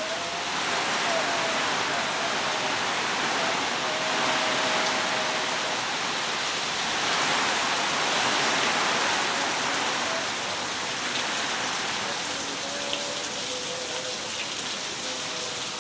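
Heavy rain pouring down steadily, swelling louder in two long waves.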